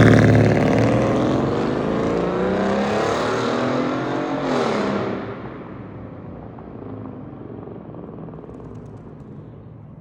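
A car's engine revving hard as it accelerates away. It is loudest at the start, and its pitch climbs steadily for about four and a half seconds. The revs drop about five seconds in, and the sound fades into the distance.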